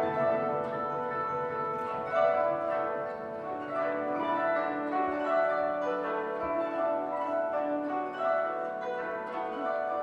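Kotos playing a continuous stream of plucked notes, some of them held, in a piece written in the style of the Chinese guzheng.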